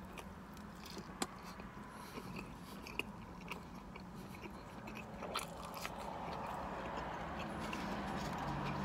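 Close-up chewing and biting of a fried chicken sandwich, with a few short sharp crunches and mouth clicks. A low steady hum runs underneath and grows slightly louder after about five seconds.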